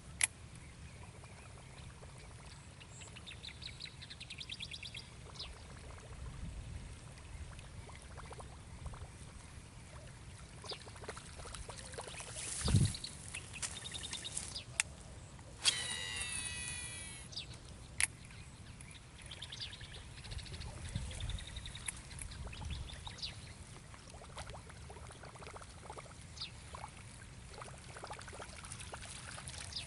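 Outdoor waterside ambience with birds calling on and off, including a louder call with sliding notes about halfway through. A few sharp clicks and a short thump about 13 seconds in are heard.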